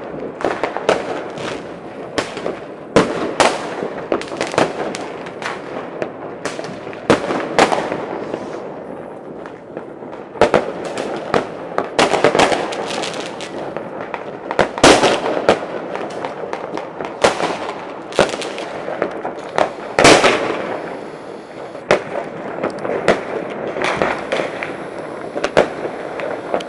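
New Year's fireworks and firecrackers going off: a continuous crackle with frequent sharp bangs at irregular intervals, the loudest about fifteen and twenty seconds in.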